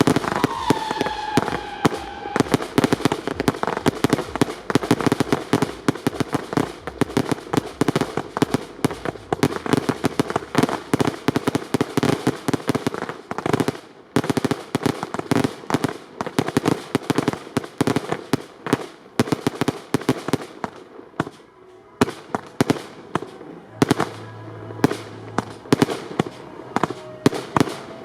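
Fireworks display at close range: a dense, rapid run of bangs and crackles from aerial shells and batteries. It thins out briefly about three quarters of the way through, then builds again.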